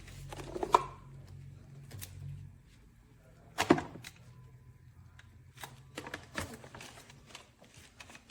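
Handling of a cordless wet-dry floor cleaner's plastic parts: a series of sharp clicks and knocks, the loudest about a second in and near the middle. A faint low hum stops about two and a half seconds in.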